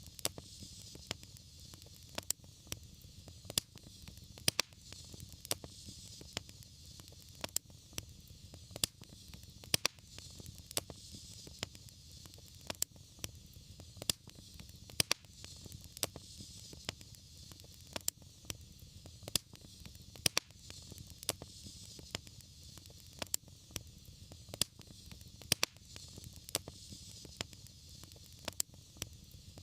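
Wood fire crackling: irregular sharp pops and snaps over a steady low rumble and soft hiss of the flames.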